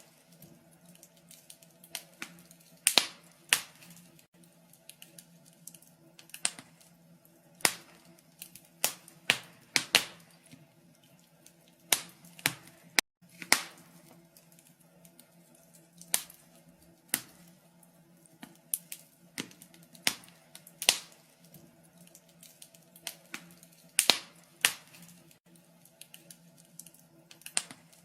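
Wood fire crackling in a fireplace: sharp, irregular pops and snaps about one or two a second, some much louder than others, over a faint steady low hum.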